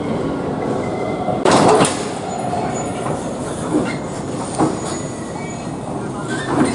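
A train running on track, a steady rumble with a loud clatter about one and a half seconds in and lighter clicks later on.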